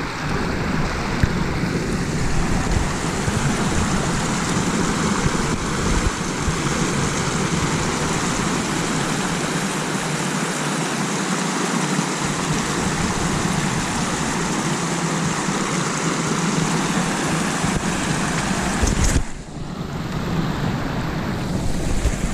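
Steady rushing of floodwater from a rain-swollen stream overflowing its banks and a beaver-dam pond, with a low rumble of wind on the microphone. The sound drops briefly about nineteen seconds in, then returns.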